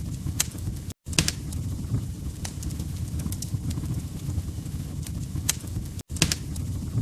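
Wood fire crackling in a fireplace: scattered sharp pops and snaps over a low steady rumble of the burning logs. The sound cuts out for an instant twice, about one second in and again about six seconds in.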